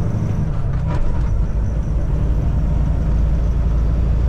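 Semi-truck's diesel engine and road noise heard inside the cab: a steady low rumble, with a brief clatter about half a second to a second in.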